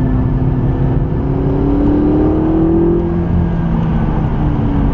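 McLaren 650S twin-turbo V8 engine pulling under acceleration, its note climbing steadily, then falling away about three seconds in, over steady road and tyre noise.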